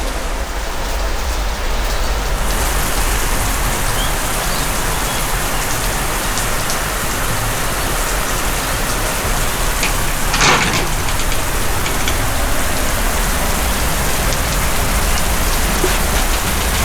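Heavy rain pouring steadily onto surfaces during a thunderstorm, with one brief sharp crack about ten seconds in.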